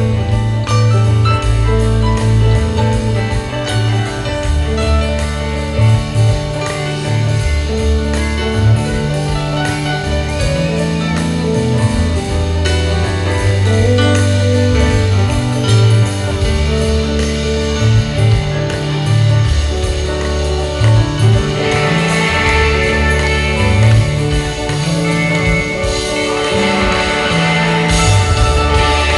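Rock band playing live: an instrumental passage with bass, electric guitars and drums, no singing. A bright, crashing high wash builds in the last several seconds.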